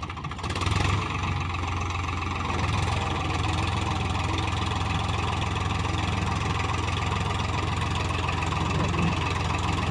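Swaraj 735 tractor's three-cylinder diesel engine running at a steady speed.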